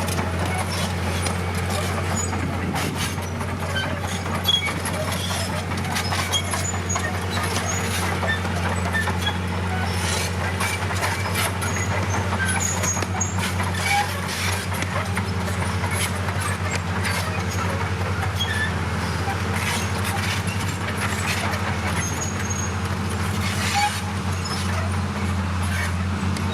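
Heavy diesel earthmoving machinery running steadily, with a constant low engine drone and frequent short clanks and rattles of metal.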